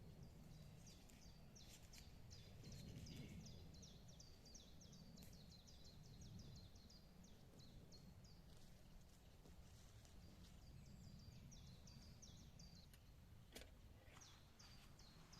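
Birds chirping outdoors, a long run of short, high notes repeating several times a second, with a low rumble underneath and a couple of sharp clicks near the end.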